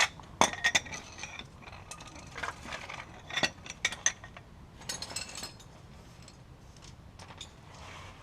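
Metal hand tools clinking and clicking in short irregular bursts: sockets and a ratchet wrench working on the wheel hub's mounting bolts.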